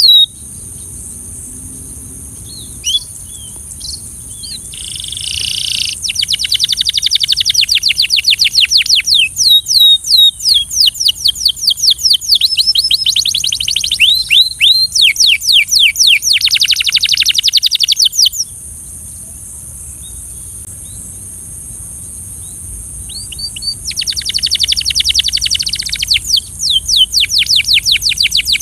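Belgian canary singing: long, rapid trills of quick repeated high notes, broken by a lull of a few seconds in the middle before the song resumes. A steady high hiss runs underneath.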